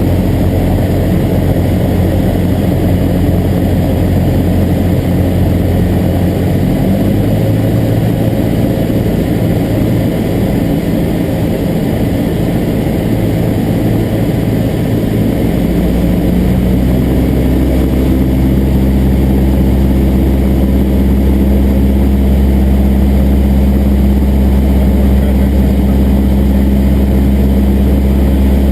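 Cessna 172's piston engine and propeller droning in the cockpit. The engine note shifts about a quarter of the way in, then rises and grows louder around halfway, as when power is added, and holds steady after.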